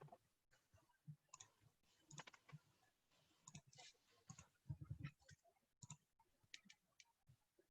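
Near silence with faint, irregular clicks of a computer mouse.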